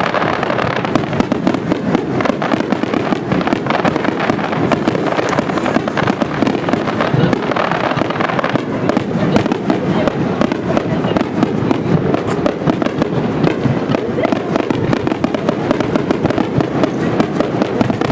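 Aerial fireworks over the sea going off in a dense, continuous barrage of bangs and crackles, many bursts a second with no break.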